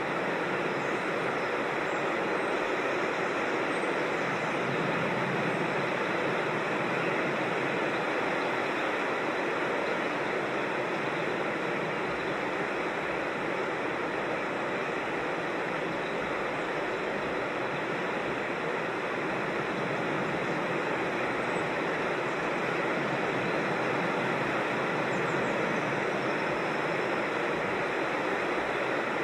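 Creek water rushing and splashing over rocks in small falls, a steady, even rush.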